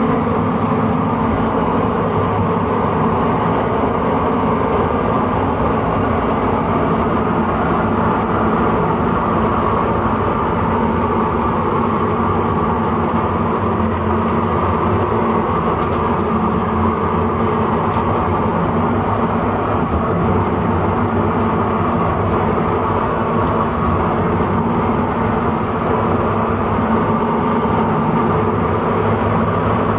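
Toyota Land Cruiser hardtop's engine running steadily as the loaded truck drives, a constant low drone of several steady tones with no letup.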